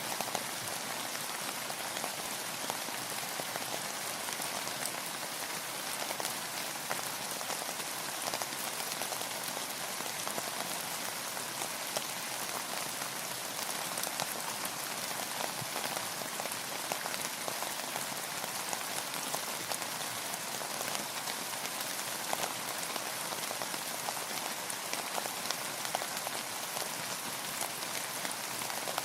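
Steady rainfall: an even hiss of rain with many small drop impacts pattering on a surface throughout.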